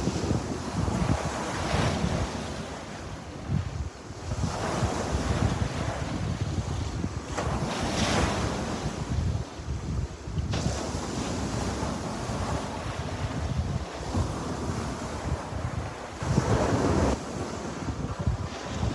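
Sea waves breaking and washing onto the shore, in swells every few seconds, with a constant low rumble of wind on the microphone.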